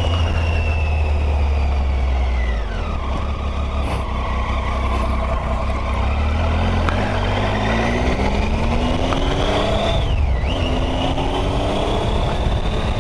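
Motorcycle engine heard by its rider under a steady low wind rumble. The engine note falls over the first few seconds as the bike slows, then climbs as it accelerates, with a sudden drop about ten seconds in, like a gear change, before it climbs again.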